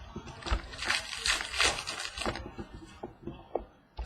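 Trading cards and their packaging handled: a rustling, crackling stretch lasting about two seconds, then a few light clicks.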